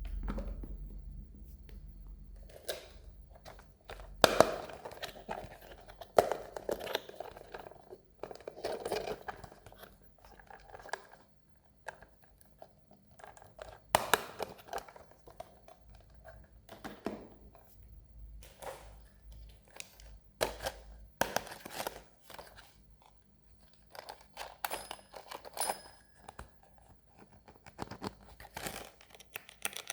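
Toy packaging handled close up: crinkling, rustling and tearing, broken by irregular sharp clicks and taps.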